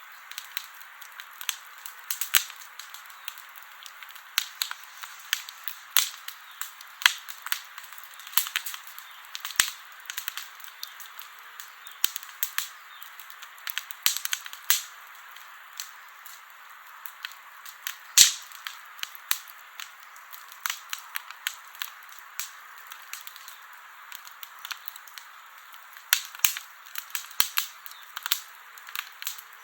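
Wood campfire crackling: irregular sharp pops and snaps over a steady hiss of burning, with one louder snap about eighteen seconds in.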